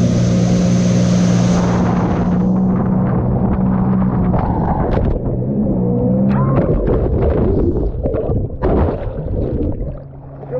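Jet ski engine running with a steady drone, which drops away after about five seconds, followed by irregular water splashing and sloshing.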